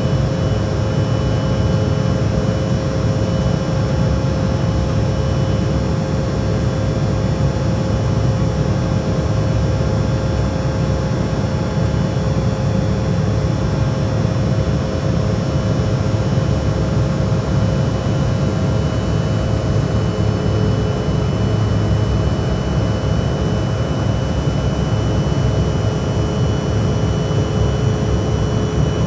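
Jet airliner engines running steadily, heard inside the passenger cabin: an even low rumble with a few faint steady whining tones above it.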